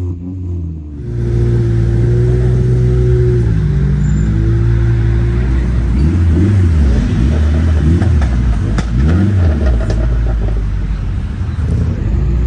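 Modified car engine held at steady revs, then revved in quick blips up and down several times, with a few sharp pops among the blips.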